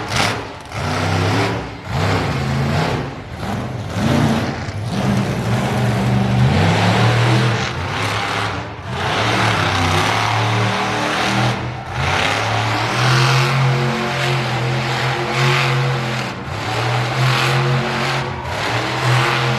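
Loud motorsport engines revving and running hard, the pitch repeatedly climbing and falling with short dips between throttle bursts.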